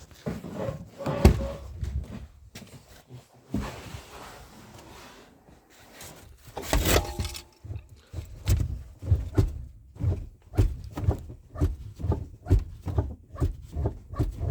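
Clunks and knocks of hands-on work in a car's engine bay, with one loud knock about seven seconds in, then a steady run of dull thuds about two a second.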